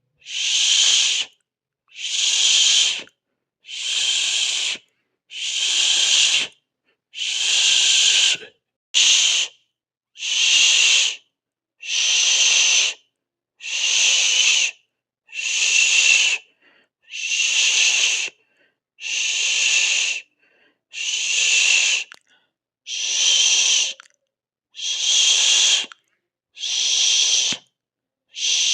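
A person hissing through the teeth, a long 'sss' about a second long repeated over and over with short silent pauses between, roughly one every second and a half to two seconds. Each hiss is an airy sound; one near the ten-second mark is cut short.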